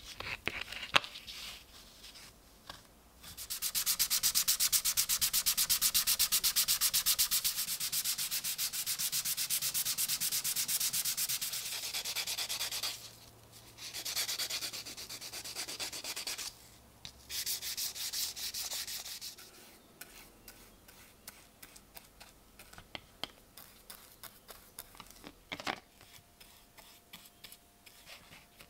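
Sanding on a knife part: a fast, even scratching in three spells separated by short pauses, followed by scattered small handling clicks.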